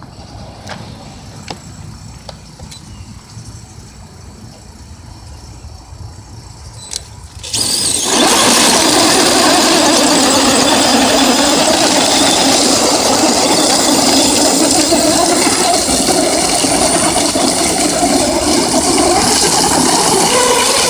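Electric motors and geared drivetrains of RC crawler trucks running under load, starting abruptly about seven and a half seconds in and going on loudly and steadily. Before that there is only a faint background with a few light clicks.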